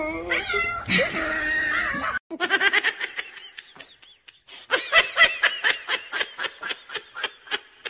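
High-pitched giggling in rapid bursts, about six or seven short laughs a second, starting about two seconds in after a short stretch of pitched voice sounds.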